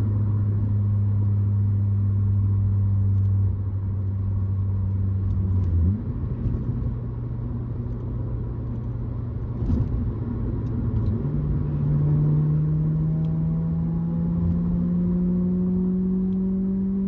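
Acura RSX Type-S's K20Z1 four-cylinder engine through an Invidia N1 catback exhaust while driving: a steady, deep exhaust tone that eases off about three and a half seconds in, then from about eleven seconds rises slowly and steadily in pitch as the car gradually accelerates.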